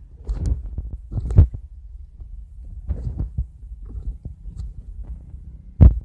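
Strong gusty wind buffeting the microphone: an uneven low rumble with irregular thumps, the two loudest about a second and a half in and near the end.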